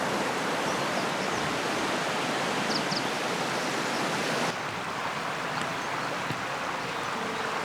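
Steady rush of flowing river water, with faint high bird chirps now and then; the rushing drops abruptly to a lower level about halfway through.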